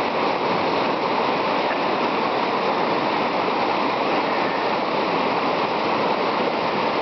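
Steady rush of whitewater pouring through a river chute rapid.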